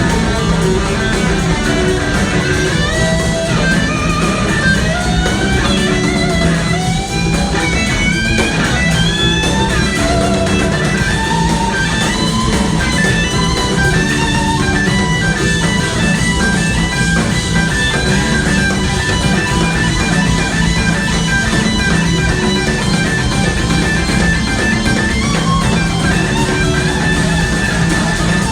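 Live rock band playing an instrumental passage: an electric guitar lead with bending, gliding notes over steady bass and drums, moving into fast repeated notes in the second half.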